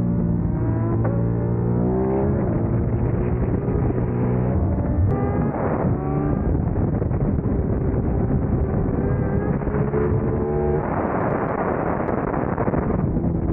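Sport motorcycle engine heard onboard at track speed, its note climbing and dropping back at each upshift, then holding steady. Near the end the engine note gives way to a rush of wind noise on the microphone for a couple of seconds before the engine returns.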